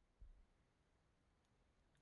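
Near silence: room tone, with one soft low bump about a quarter second in.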